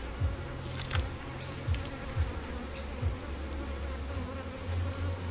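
Honeybees buzzing around an opened hive, a steady hum with individual bees flying close past the microphone, their buzz sliding in pitch as they go by.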